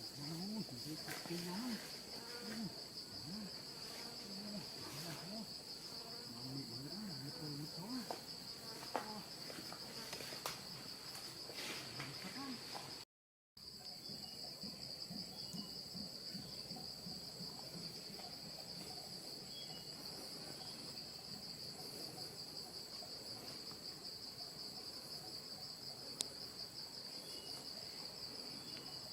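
Steady, high-pitched insect chorus, a continuous trill of crickets or similar forest insects. The sound drops out for a moment near the middle, then resumes.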